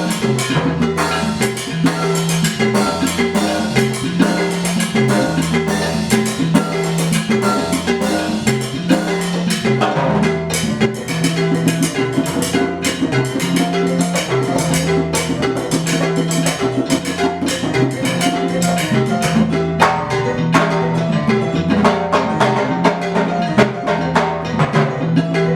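Live Afro-Cuban percussion music: drums and hand percussion playing a dense, steady rhythm over a repeating low pitched figure.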